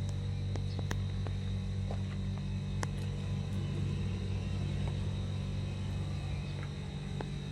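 Wheel loader's diesel engine idling steadily, with a few faint clicks over it.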